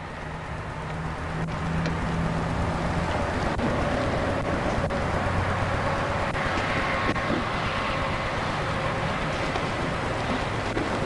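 Car engine and road noise, building over the first couple of seconds and then running steadily.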